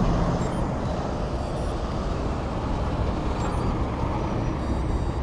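Road traffic passing: a steady rush of engine and tyre noise with a heavy low rumble.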